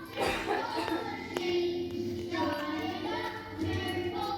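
Children singing a song, holding sustained notes.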